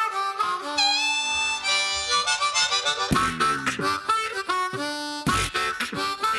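Harmonica playing a bluesy melody with bent, gliding notes, joined about halfway through by beatboxed percussion hits played along with it.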